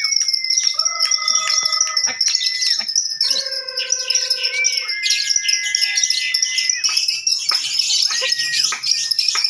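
Lovebirds singing in a dense, unbroken high-pitched chatter of rapid chirps, the long trilling 'ngekek' song. A few held, whistle-like tones sound over it for a second or two at a time.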